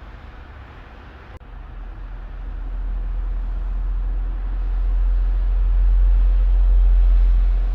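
Low rumble that swells louder over several seconds, with a single click about a second and a half in.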